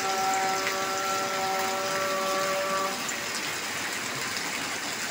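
Heavy rain falling steadily. A steady pitched tone, held without wavering, sounds over the rain and stops about three seconds in.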